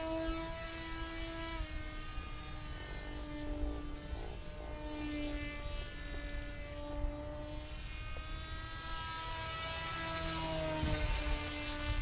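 RC F-22 model airplane's motor and propeller whining in flight, the pitch dropping and rising a few times as the throttle changes and the plane passes. Low wind rumble sits underneath.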